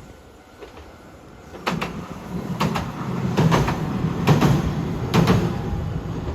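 A train passing, its wheels clacking over rail joints about once every second under a low rumble. The sound swells about a second and a half in.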